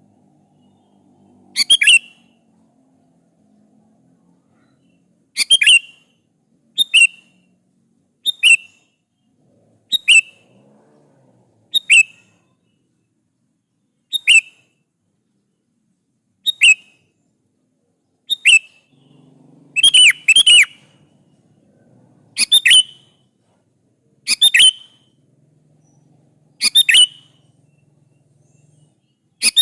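Sooty-headed bulbul (kutilang) calling: short, sharp, loud notes that drop quickly in pitch, repeated every one to two seconds, a few in quick pairs.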